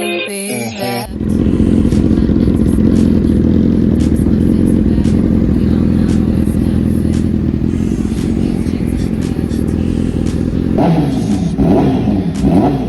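Honda CBR1000RR's inline-four engine running through a Dynamic aftermarket exhaust with the catalytic converter still fitted, loud even so; it idles steadily, then is revved up and down several times near the end. A snatch of music plays before the engine comes in.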